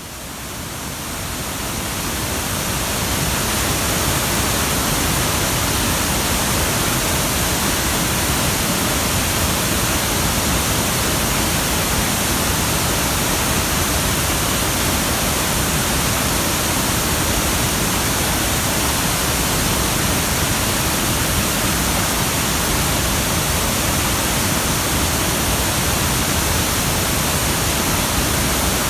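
Hyakken Falls pouring with a heavy, rain-swollen flow: a steady, even rush of falling water that fades up over the first few seconds.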